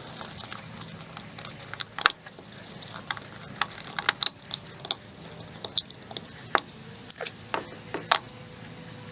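Irregular small clicks and taps of hard parts being handled: the plastic oil filter housing cap and its O-ring being worked on by hand, with sharper knocks about two seconds in and near the end.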